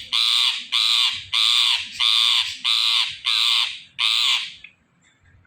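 Indian ringneck parakeet giving a rapid series of about seven loud, harsh screeching calls, about two a second, stopping about four and a half seconds in.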